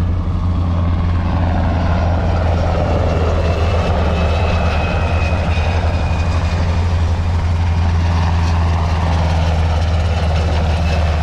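A steady low-pitched engine drone that holds at one pitch throughout, with a faint high whine in its middle stretch.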